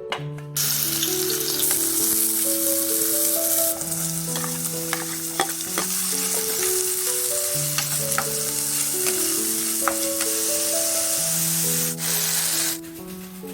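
Food sizzling as it fries in hot oil in a pan while being stirred, with scattered clicks of a utensil against the pan. The sizzle starts about half a second in and stops shortly before the end.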